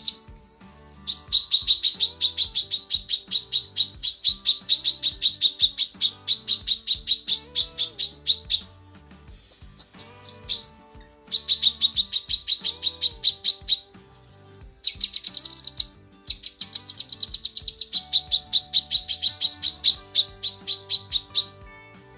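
Cucak kinoi song, given as a female calling for a male: long runs of rapid, evenly repeated high notes, about four a second, in several bursts broken by short pauses, with a brief higher call in the middle.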